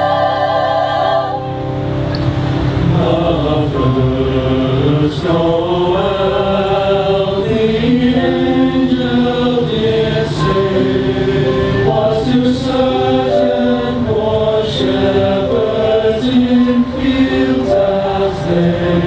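Community choir singing, moving from note to note in sustained sung chords; a held chord ends about a second and a half in and a new phrase begins.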